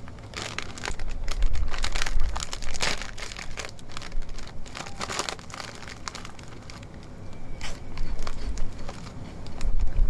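Irregular crinkling and crackling handling noises, a dense run of short sharp clicks that thins out after about five seconds and picks up again near the end.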